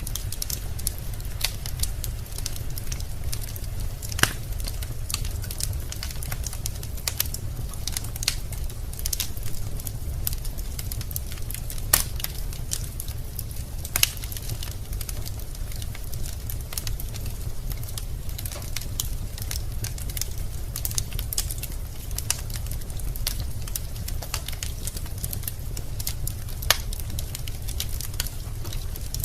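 Wood fire in a fireplace burning with a steady low rumble and scattered sharp crackles and pops, a few louder snaps among them.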